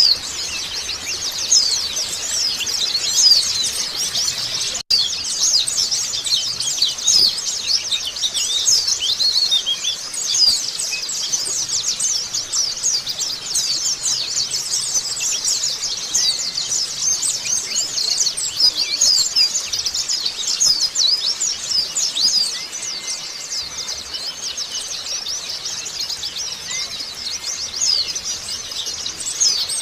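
A dense chorus of white-eyes (pleci) singing: many rapid, high-pitched chirps and trills overlapping without a break, cutting out for an instant about five seconds in.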